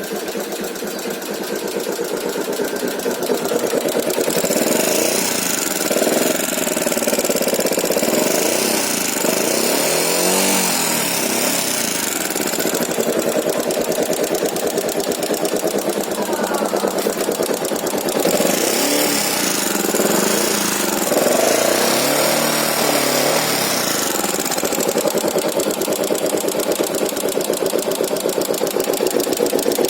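Yamaha Jupiter MX 135LC's single-cylinder four-stroke engine running, its revs rising and falling a few times, with the strange noise from the cylinder block that the owner is trying to track down.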